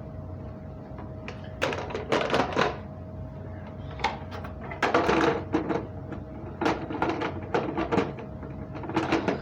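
Hard plastic parts of a carpet cleaner being handled: clicking and clattering in four short bouts, over a steady low hum.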